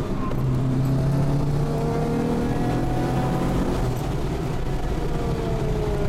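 A car engine and drivetrain running hard at track speed, heard from inside the cabin as a steady drone with a fainter whine that slowly rises and then falls.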